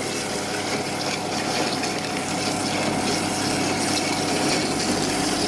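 Power metal-cutting saw running steadily as its blade cuts through an aluminium pulley with a phosphor bronze centre, at the very end of the cut.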